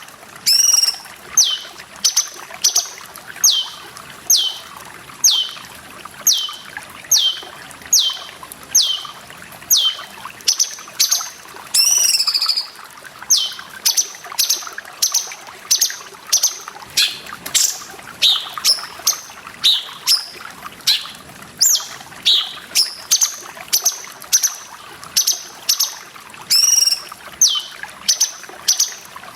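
Cucak cungkok calling over and over, short sharp notes that fall in pitch, about one or two a second, with one longer, more warbling call about halfway through. Trickling water runs steadily underneath.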